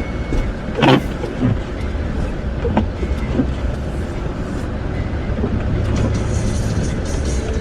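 3/4-ton Duramax diesel pickup running with a steady low rumble, with a sharp knock about a second in.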